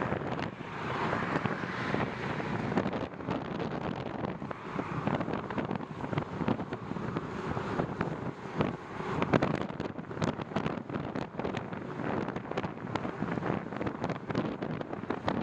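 Wind buffeting the microphone of a camera carried on a moving bicycle, a rough, fluttering rush with many scattered sharp clicks and rattles.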